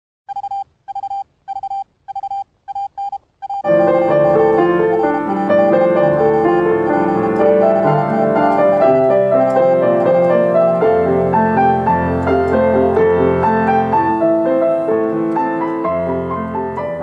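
A run of short electronic beeps on one pitch, coming closer together, then piano music with many notes and chords from about four seconds in.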